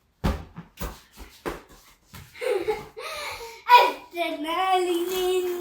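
A few short knocks and taps, toys or a ball being handled, then a baby's voice: brief babbles, then a long, steady held "aaa" vocalization starting about four seconds in.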